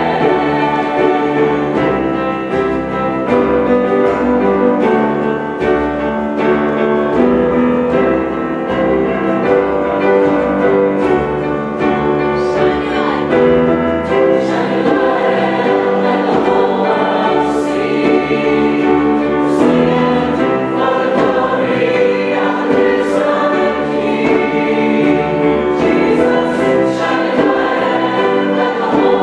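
Choir singing a sacred piece, many voices in harmony, steady throughout.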